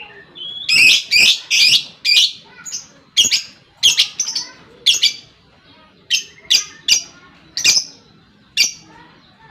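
Lovebird giving a rapid series of short, shrill calls, about two a second, with a short pause a little past the middle.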